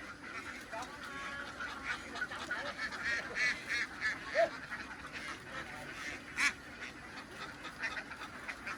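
A flock of domestic ducks quacking: many short calls overlapping, with one louder call near the end.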